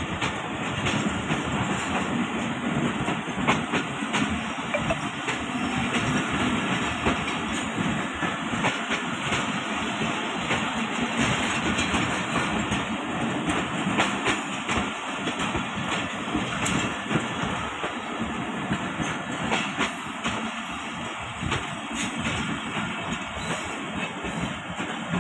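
Passenger coaches of an express train rolling slowly past along a station platform: a steady rumble of wheels on track, with the wheels clicking over the rail joints.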